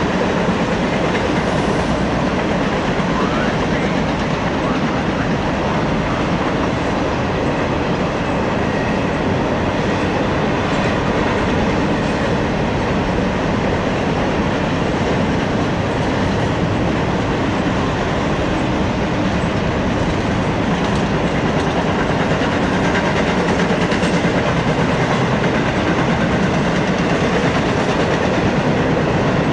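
Double-stack intermodal freight train rolling steadily past, its well cars carrying containers and trailers making a continuous rolling noise of wheels on rails.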